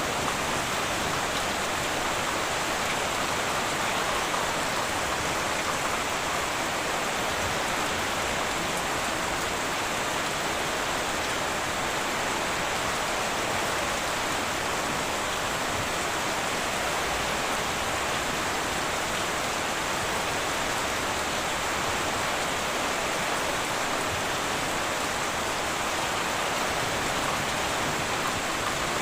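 Heavy rain falling steadily on a tin roof, an even wash of drops with no thunder.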